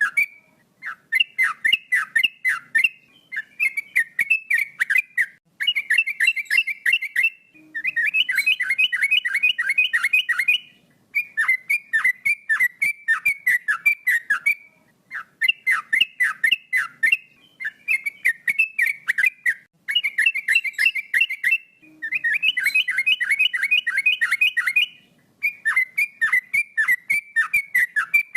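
Male sooty-headed bulbul singing persistently: loud phrases of quick, falling whistled notes, about four or five notes a second, each phrase lasting two to three seconds and separated by brief pauses.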